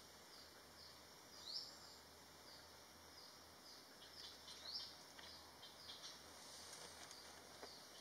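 Faint, high-pitched chirps of small birds, several a second, over a low hiss, with two louder rising chirps about one and a half and nearly five seconds in.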